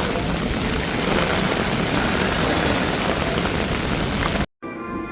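Heavy rain pouring steadily as a loud, even hiss. It cuts off abruptly about four and a half seconds in, and a quieter passage with a few steady tones follows.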